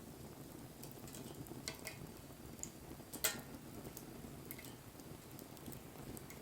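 Wood campfire crackling: scattered small sharp pops over a low steady rush of burning, with one louder pop a little past halfway.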